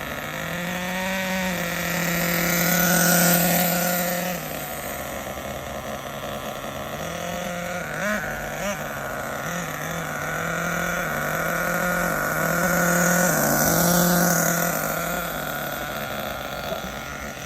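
Hong Nor Force 32 two-stroke nitro engine in an RC truggy running during its break-in, blipped up and down on light throttle. It grows louder twice, about three seconds in and again near thirteen seconds.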